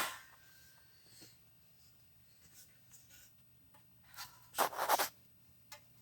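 Handling noises from work on parts: a sharp knock at the start, a few faint clicks, then a short burst of scraping and rubbing a little after four seconds in.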